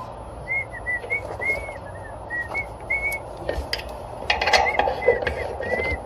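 A person whistling a short tune, a string of brief notes near one pitch that stops for a moment and then picks up again, over light clinks and rustles of tools being handled.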